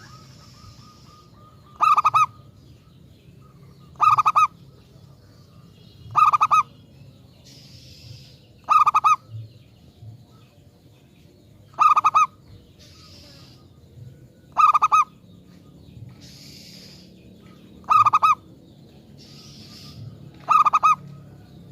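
Zebra dove (perkutut) cooing: a short, rapidly pulsed coo given eight times, roughly every two to three seconds. Faint hissy noises come between the coos.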